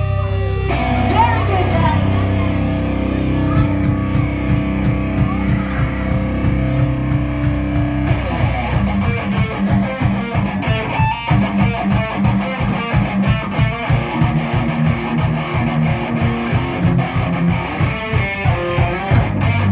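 Metal band playing live, with distorted electric guitar and drums. Held low chords give way, about halfway through, to a fast, driving pulsed riff under steady drum hits.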